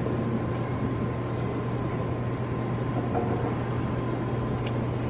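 A steady low hum with a faint high tone and an even background hiss, unchanging throughout.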